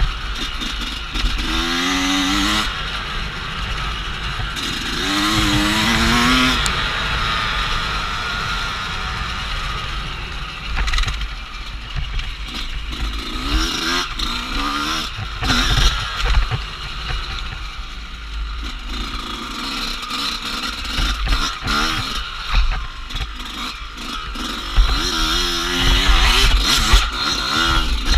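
Dirt bike engine revving up and falling back again and again as the throttle is worked while riding off-road, over a steady low rumble.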